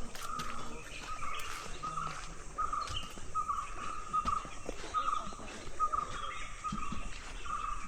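A bird calling one short note over and over at an even pace, nearly two a second, with other birds chirping faintly behind it and the soft tread of footsteps.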